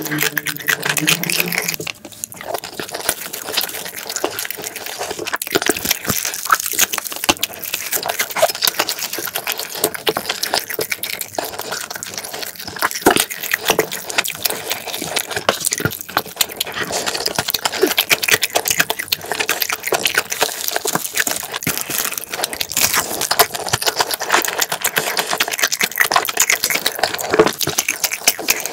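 Close-miked eating sounds: wet, sticky chewing of spicy marinated crab and fried rice, full of small smacks and clicks, with sauce squelching as the crab is handled.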